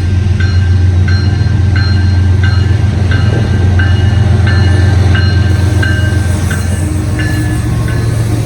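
CSX diesel freight train passing close by, its locomotive engines giving a steady low rumble. Over it, a railroad crossing bell rings about twice a second, stopping shortly before the end.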